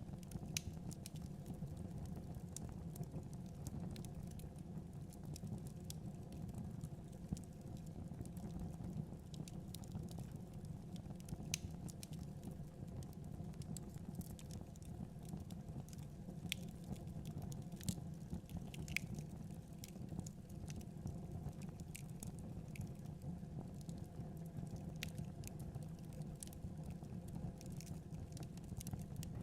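Fireplace fire burning, with a steady low rumble and irregular sharp crackles and pops.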